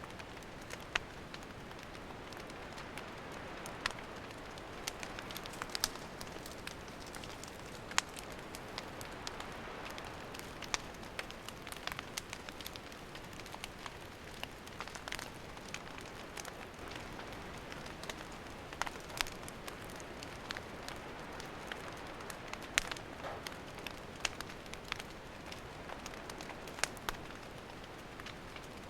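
Wood campfire burning, crackling with irregular sharp pops and snaps over a steady soft hiss of the flames.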